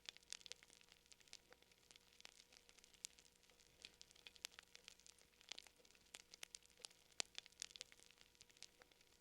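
Quiet fire crackling: many small, irregular pops and snaps over a faint hiss.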